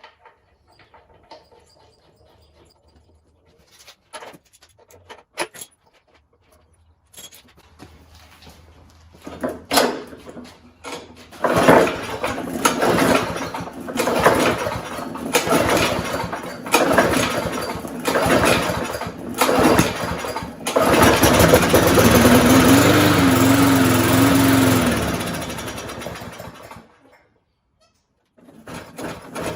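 Walk-behind lawnmower engine being pull-started: a few faint clicks, then a series of recoil-starter pulls about a second apart, after which the engine runs unevenly for about six seconds and cuts out.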